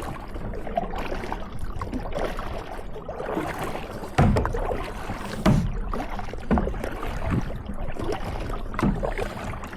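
Kayak paddling on a lake: paddle strokes and water splashing against the hull, with irregular low thumps about once a second in the second half.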